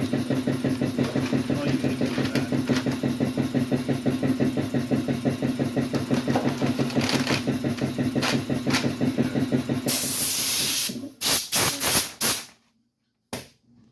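A shop power tool's motor runs steadily with a fast pulsing hum, then stops about ten seconds in. A long hiss of compressed air follows, then several short blasts of air, as of a blow gun clearing sanding dust. A single click comes near the end.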